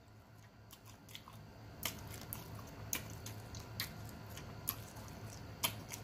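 A person chewing a mouthful of food close to the microphone, with soft, irregular wet mouth clicks and smacks.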